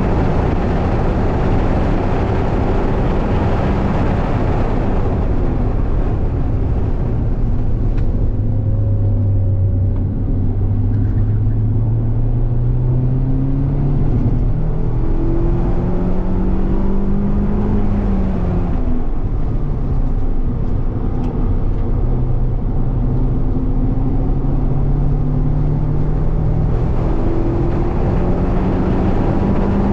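Mazda MX-5's four-cylinder engine pulling hard on track, heard from inside the cabin over steady tyre and wind noise. The engine note climbs slowly, drops at a gear change about two-thirds through, climbs again and drops once more near the end.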